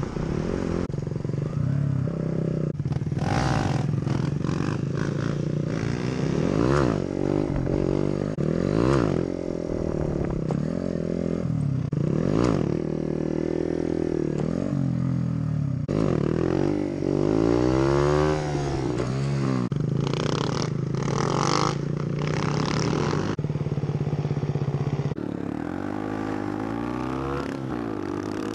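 Motorcycle engines running and revving, their pitch rising and falling over and over, with more than one engine heard at once at times.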